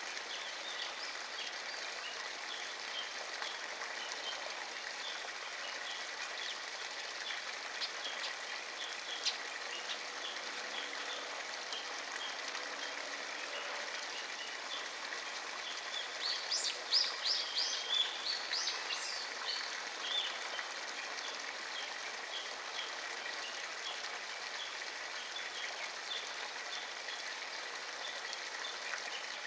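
Birds chirping over a steady outdoor hiss, with a louder run of quick chirps about 16 to 20 seconds in.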